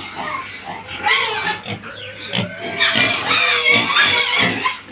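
Pigs on a farm squealing and grunting, several calls overlapping, growing louder about halfway through.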